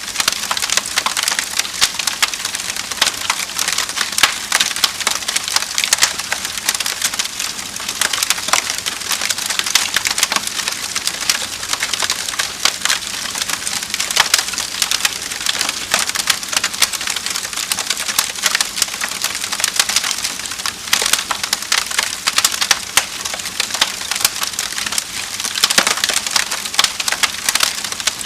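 Wood fire crackling in a fireplace: a steady, dense run of small irregular pops and snaps over a soft hiss.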